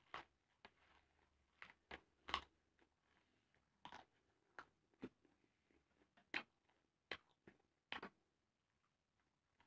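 Close-miked chewing of crisp lettuce leaves with rice: irregular short crunches and wet mouth clicks, about a dozen, with quiet between them. The loudest crunch comes about two and a half seconds in.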